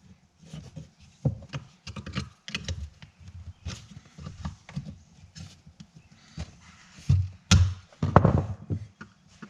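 Irregular small knocks, clicks and scrapes of hand tools working the metal retaining tabs on a truck vent window frame, bending them to free the old weather stripping. The loudest knocks come about seven and a half to eight and a half seconds in.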